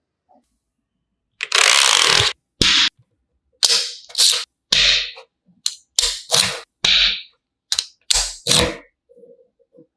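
Colored plastic magnetic building pieces clacking and snapping together, about ten sharp separate clacks after a longer rattle near the start.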